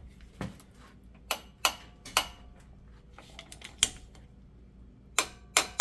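Hand wrench and socket working the 13 mm brake caliper bolts, giving a string of sharp, irregular metallic clicks and clinks, a few ringing briefly, with a quick cluster near the end.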